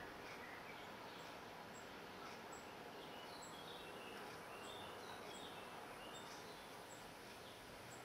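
Faint, steady outdoor hiss with short high bird chirps: a thin high note about once a second and a few quick, falling chirps in the middle.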